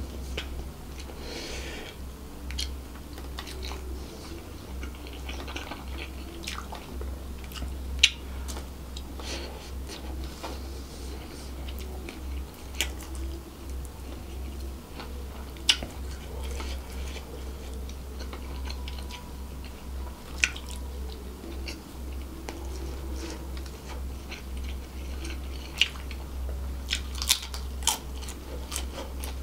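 A person chewing mouthfuls of seafood fried rice close to the microphone, with scattered sharp clicks, a cluster of them near the end. A steady low hum runs underneath.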